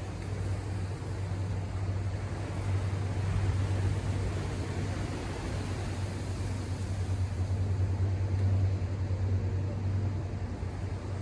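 Ocean surf washing ashore as a steady hiss that swells and eases every few seconds, over a low steady hum.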